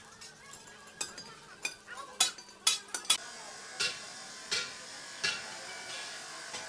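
A series of sharp knocks and taps, irregular at first, then three strikes about three quarters of a second apart over a steady hiss.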